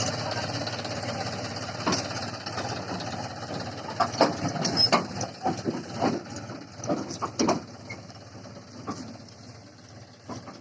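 John Deere 5050D tractor's diesel engine running steadily, growing fainter over the second half. A run of sharp knocks and clicks comes about four to eight seconds in.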